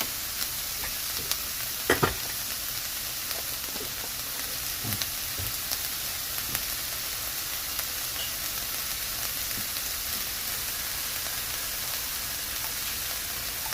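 Broccoli frying in a pan, sizzling steadily, with stirring and two sharp clacks about two seconds in.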